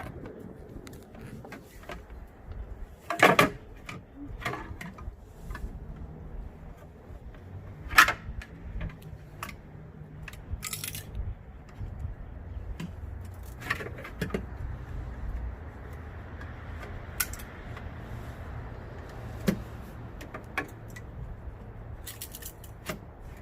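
Scattered knocks, clicks and light rattles from handling a carbon-fibre rear diffuser while trying it against the car's rear bumper. The two loudest knocks come about three and eight seconds in, over a low steady hum.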